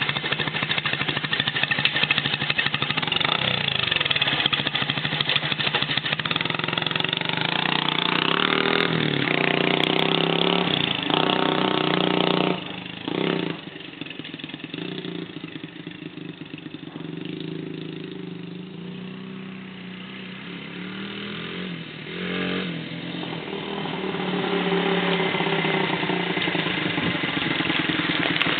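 2001 Yamaha TTR90 mini bike's small four-stroke single-cylinder engine being ridden, revving up and down through the gears. About halfway through it drops away and stays quieter for a while as the bike moves off, then grows louder again near the end as it comes back.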